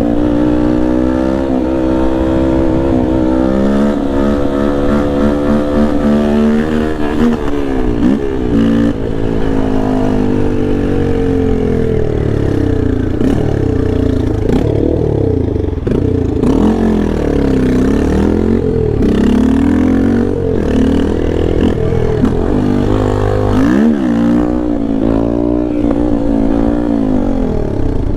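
Yamaha Lander 250's air-cooled single-cylinder four-stroke engine, ridden hard: it revs up through the gears again and again, its pitch climbing and dropping at each shift and on easing off.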